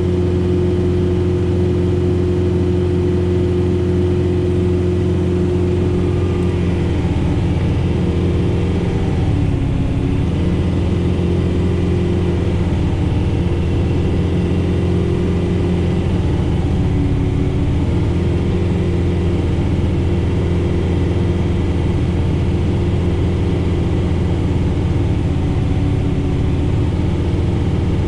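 John Deere 4066R tractor's diesel engine running steadily, driving a Frontier SB1174 snowblower through heavy wet snow. The engine note sags briefly about ten seconds in and again a little past the middle as the blower takes on load.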